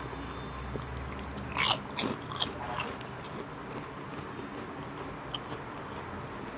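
Close-up biting and crunching on crispy chicharon (fried pork rind), with a quick run of crunches in the middle, then quieter chewing.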